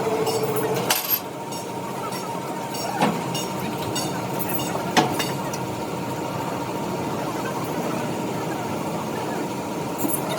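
Workshop machinery running with a steady hum and a thin whine, with three sharp metallic knocks about two seconds apart in the first half.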